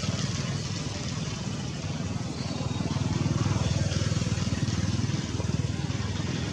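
A steady low engine-like rumble with an even pulse, under a constant hiss.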